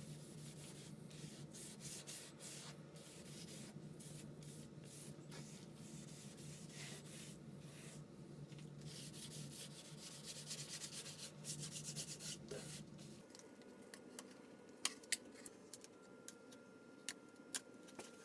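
Quick, repeated hand-rubbing strokes over the tool chest's wood as the stain-and-oil finish is worked in. About two-thirds of the way through the rubbing stops, leaving a few sharp clicks.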